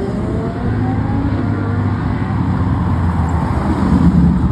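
Car engine accelerating, its note rising through about the first second, then settling into a steady engine drone mixed with traffic noise.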